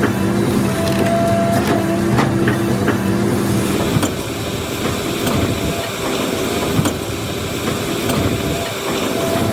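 Heavy machinery working: a steady whine over a mechanical rumble, then an abrupt change about four seconds in to a rougher rattling rumble with occasional knocks.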